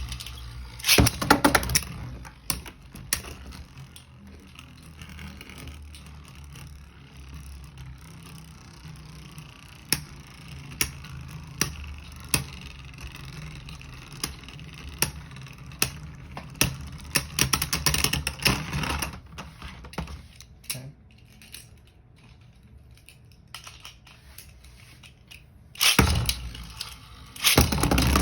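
Two Beyblade tops battling in a stadium. They spin with a steady low whir and clash in sharp clacks every second or so. There is loud rattling clatter at the launch and again near the end.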